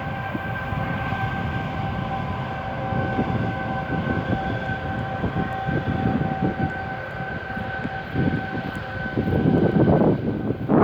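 A steady droning whine that fades out near the end, over wind buffeting the microphone, which grows louder in the last couple of seconds.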